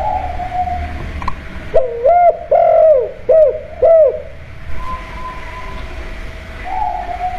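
Spotted dove (tekukur) cooing: one phrase of about five quick, rounded coos about two seconds in, with softer drawn-out coo notes near the start and the end.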